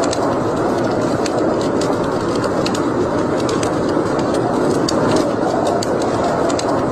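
Wood fire burning in a fireplace: a steady rush of flames with many small, irregular crackles and pops.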